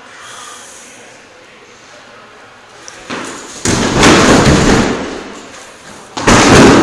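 Quiet for about three seconds, then heavy slamming thuds: one about three and a half seconds in that rings on for over a second, and another sharp, loud one near the end.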